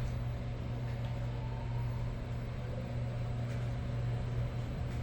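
OTIS passenger elevator car travelling downward, heard from inside the cabin: a steady low hum with even ride noise.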